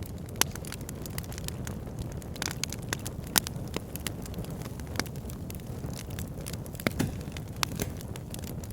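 Wood fire in a backyard fire pit crackling, with a steady low rumble of flames under frequent small snaps and a few louder pops.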